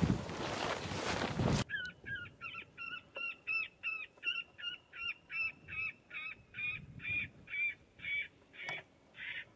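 Wind buffeting the microphone, cutting off suddenly after about a second and a half; then a bird-like two-note call repeated about twice and a half a second, some twenty times, slowing slightly and fading a little near the end.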